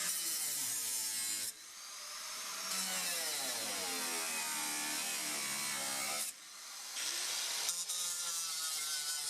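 Electric power saw cutting through a Corvette's fiberglass body: the motor's whine rises and falls as the blade loads up, over a harsh rasping hiss. The sound drops out abruptly twice, about a second and a half in and about six seconds in, then picks up again.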